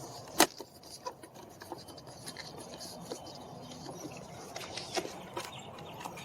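Light handling sounds of small parts being worked by hand: one sharp click about half a second in, then scattered faint clicks and taps over a steady hiss.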